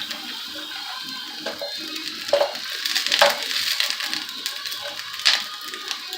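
Crinkling of a plastic food pack and a few sharp clicks as the pieces are handled, over background music.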